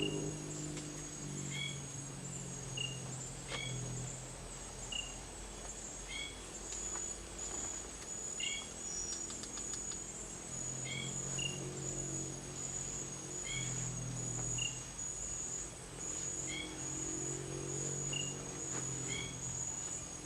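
A night chorus of crickets: a steady, pulsing high-pitched trill, with short chirps repeating about once a second and soft low droning tones coming and going underneath.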